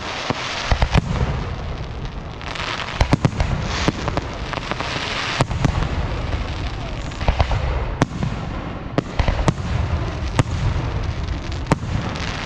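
Aerial fireworks display: shells burst in a run of sharp bangs, with a low rumble between them. A crackling hiss from glittering stars comes about two to five seconds in.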